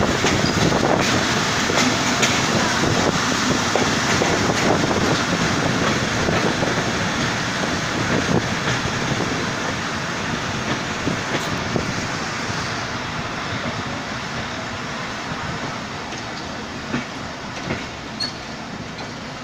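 Passenger train running along the track, heard from an open carriage window: a steady rush of wheel and rail noise with scattered clacks and clicks. The noise grows gradually quieter through the stretch, with a few sharp clicks near the end.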